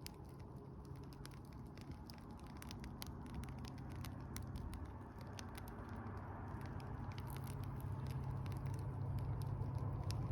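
Spruce campfire crackling, with many sharp, irregular pops over a steady low hum that grows louder near the end.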